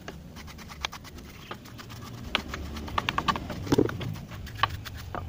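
Irregular clicks, taps and clinks of hand tools and brake parts being handled while working on a scooter's rear disc brake, busiest in the middle of the stretch.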